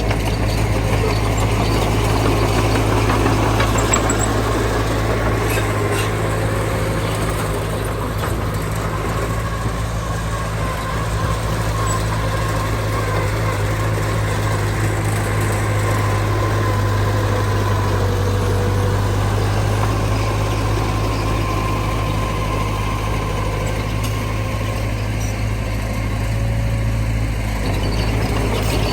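Heavy diesel engine of earthmoving equipment running steadily at an even, low pitch.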